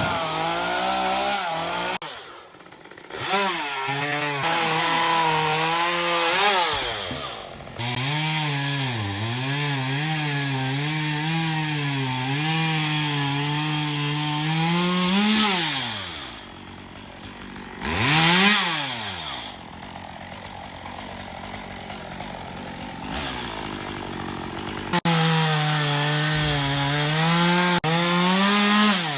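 Gas chainsaw cutting wood, its engine pitch sagging under load and recovering again and again. About halfway through it drops to idle with one quick rev, then it runs up and cuts again near the end.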